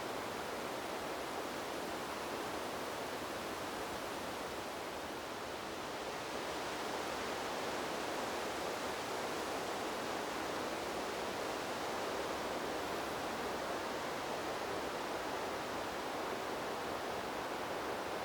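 Wind blowing through trees, a steady rushing of leaves that eases slightly about five seconds in and then picks back up.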